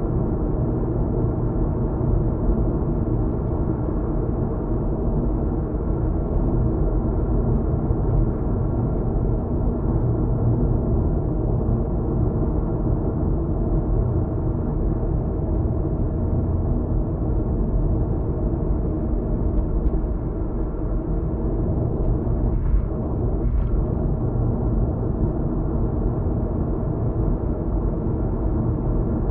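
Steady road and engine noise of a car driving, heard from inside the cabin: a low rumble with a steady hum.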